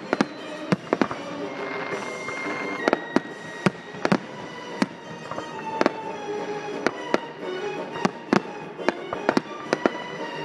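Aerial fireworks going off in quick succession, sharp bangs close to two a second, over music.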